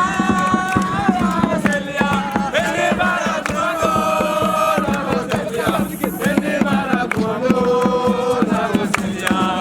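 A group of young voices singing a chant together, holding long notes, over fast, dense percussive beats.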